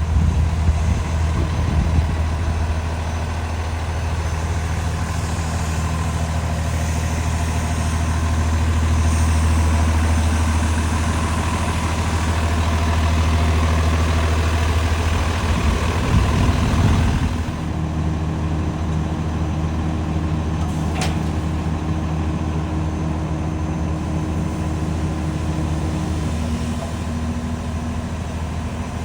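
PACCAR PX9 inline-six diesel in a Kenworth T370 dump truck idling steadily. About two-thirds of the way through, the engine's tone shifts to a slightly different, quieter note.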